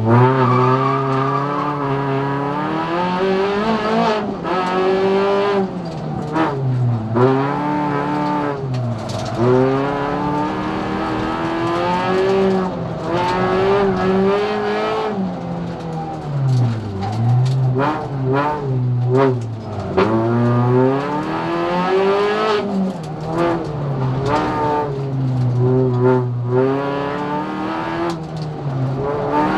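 Race car engine running hard. Its pitch climbs and drops again and again as it revs up, shifts gear and lifts off.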